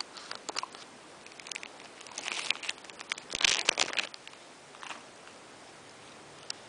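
Plastic ice-lolly wrapper crinkling in two short bursts, about two seconds in and again about a second later, with scattered small clicks between.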